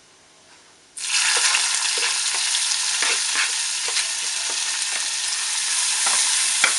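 Crushed shallots sizzling in hot oil in an iron pan, starting suddenly about a second in and going on steadily, with the taps and scrapes of a spoon stirring them.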